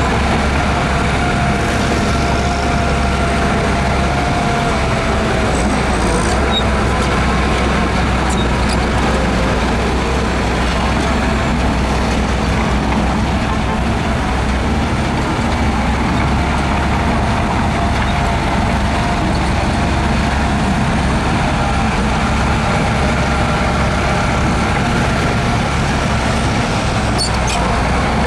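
Heavy diesel engine of earthmoving machinery running steadily under load, with a faint whine that drifts in pitch above the engine.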